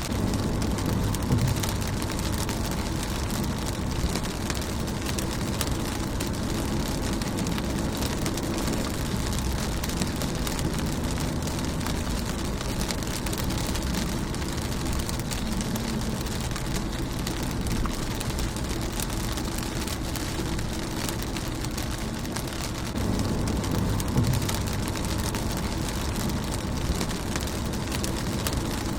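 Rain falling on a car's windshield: a steady patter of many small drops. Under it runs a low rumble that swells about a second in and again near the end.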